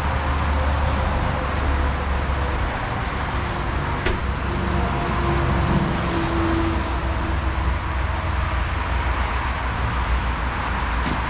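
Diesel engine idling with a steady low rumble under a broad hiss of outdoor noise.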